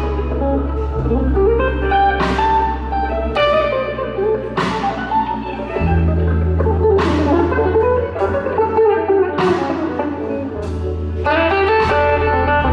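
Live blues band playing a slow blues with no vocals. Electric guitar lead lines with bent notes run over sustained bass notes, and drums keep time with a cymbal crash about every two and a half seconds.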